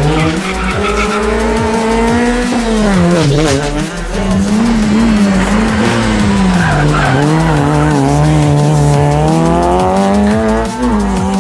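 Rally car engine working hard on a stage. The revs rise, drop sharply about three seconds in, waver, then hold lower before climbing again near the end, with tyres squealing and skidding through the corners.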